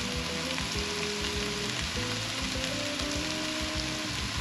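Chopped onion, ginger and garlic frying in melted butter in a sauté pan, sizzling steadily.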